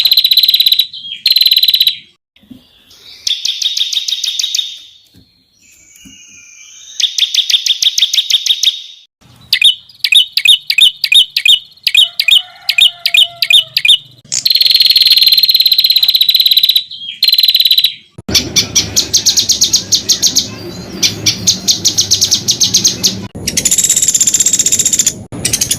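Songbirds singing loud 'tembakan' phrases: buzzy, rapid trills alternating with fast runs of sharp repeated notes, about ten a second, broken by short pauses.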